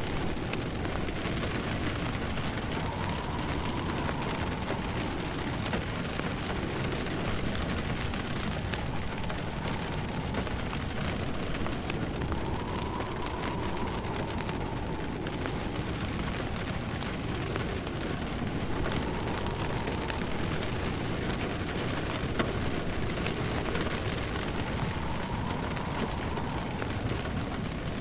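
Steady rain pattering alongside a crackling wood fire, with a faint howl of wind that rises and falls every few seconds.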